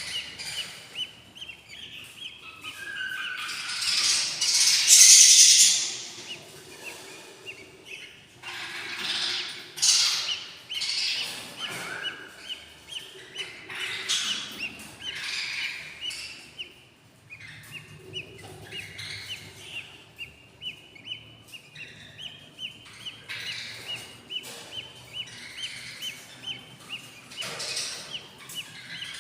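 Baby budgie chicks in a nest box begging, a rapid run of short repeated chirps. Louder harsh squawking bursts break in now and then, the loudest about four to six seconds in.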